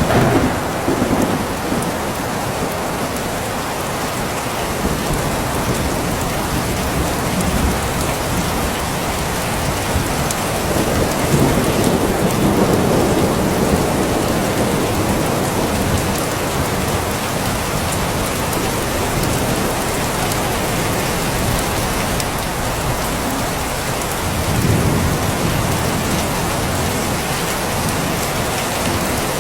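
Steady rain falling, with low rumbles of thunder swelling and fading three times: at the start, in the middle and near the end.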